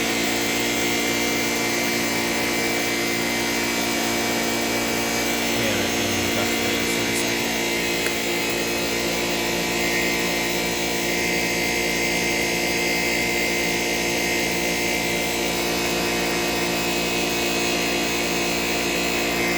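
Shark self-cleaning vacuum cleaner running steadily, its motor giving a constant high whine.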